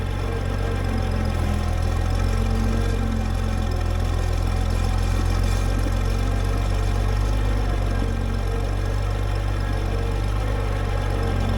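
Farm tractor's engine running steadily.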